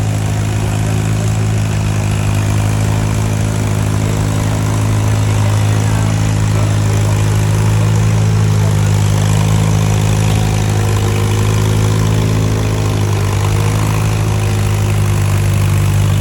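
Antique tractor engine running steadily, a loud, even low drone with only slight changes in pitch.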